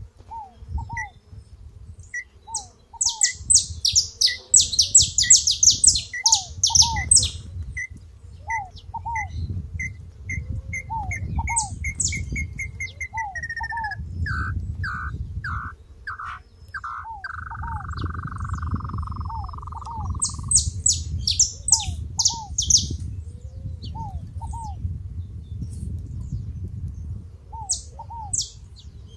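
Several songbirds singing and calling together. One voice repeats an even high pip that speeds up and slides down into a long falling whistle about halfway through. Others give repeated short slurred calls, and bursts of rapid very high chirps come a few seconds in and again near the end, over a low rumble.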